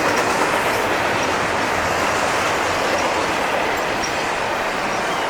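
A CSX double-stack intermodal freight train's cars rolling past, a steady loud rumble and clatter of steel wheels on rail.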